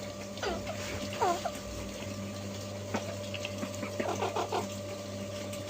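Parrot giving short calls that fall in pitch: one about half a second in, another about a second in, and a quick run of several near four seconds. A steady hum and hiss runs underneath.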